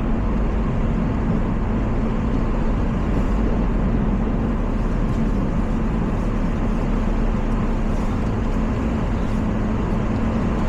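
Car on snow tyres driving on a slushy, snow-covered road, heard from inside the cabin: a steady mix of engine hum and tyre noise.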